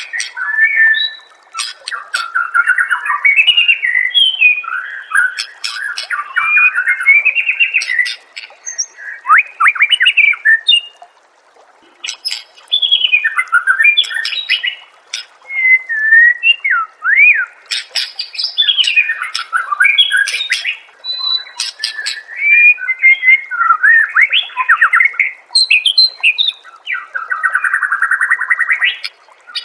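White-rumped shama (murai batu) singing a long, varied song of whistled glides, fast trills and sharp chattering clicks, with a brief pause about eleven seconds in.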